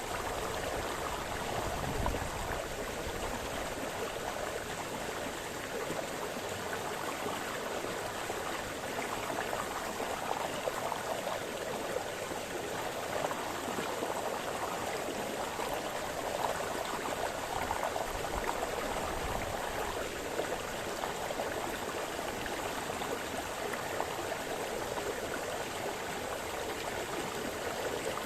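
Small brook splashing and burbling over stones, a steady, even rush of running water.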